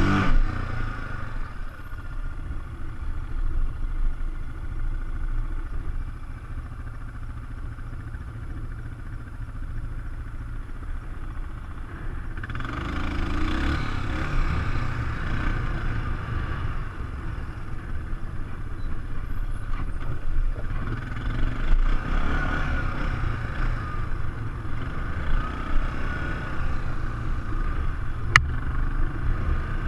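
ATV engine running during a ride, under a steady low rumble. It grows louder about halfway through and again in the last third, and there is one sharp click near the end.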